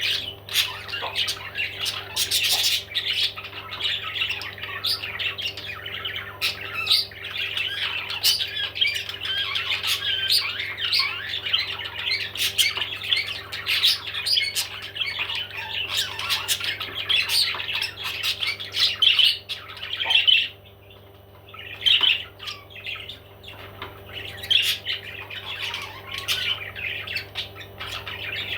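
Parrots squawking and chattering almost without pause, many sharp calls overlapping, with a short break about three-quarters of the way through.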